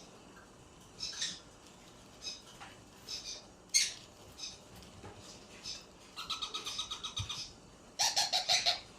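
Ringneck parrot chirping in short separate calls, then two quick runs of rapidly repeated notes in the last three seconds.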